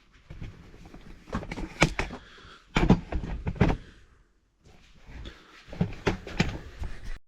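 Irregular knocks and bumps of handling in a small room, with a brief dead break about two-thirds in.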